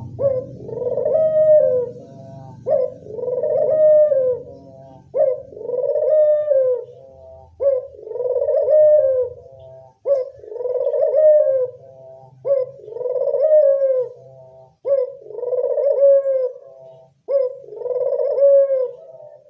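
Puter dove cooing over and over at an even pace, about one coo every second and a bit. Each call is a short clipped note followed by a longer arching coo. This is the kind of recording that is played as a lure to call in wild doves.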